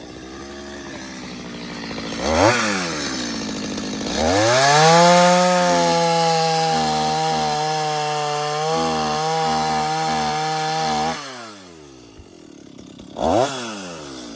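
Two-stroke chainsaw idling, revved briefly once, then held at full throttle for about seven seconds while cutting through a log, before dropping back to idle; another short rev near the end.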